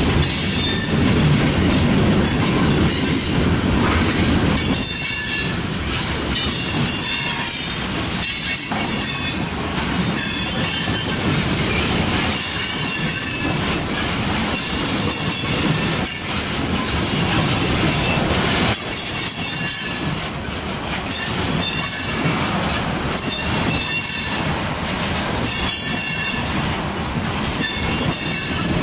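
Freight cars rolling past at track side: a steady rumble of steel wheels on rail, with repeated clicks as the wheels cross rail joints and thin, high wheel squeal now and then. The low rumble is heavier for about the first five seconds, then eases.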